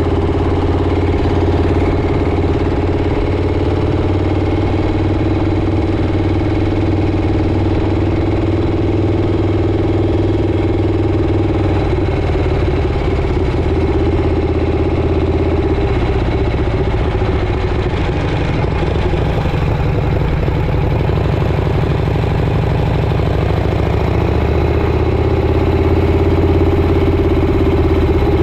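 Motorcycle engine running steadily while riding. The engine note drops a little around the middle and climbs again near the end.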